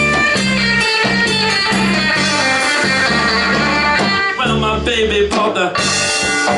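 Live band music: electric guitar lines over a steady, repeating bass pattern, with guitar notes bending in pitch a little past halfway.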